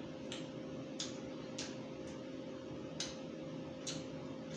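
Mouth clicks and lip smacks of a man chewing roast chicken: about six short, sharp clicks at uneven intervals, over a steady low hum.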